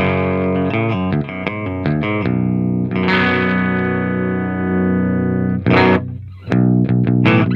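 Heavily distorted electric guitar through a Diezel VH2 tube amplifier and Marshall 4x12 cabinet, playing a metal riff. Fast short chugs open it, then one chord rings out for about two and a half seconds. After a brief break near the end, fast chugging starts again.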